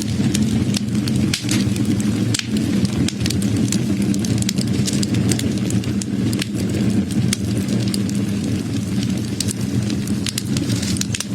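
Wood fire crackling: many sharp, irregular pops and snaps over the steady low rushing of the flames.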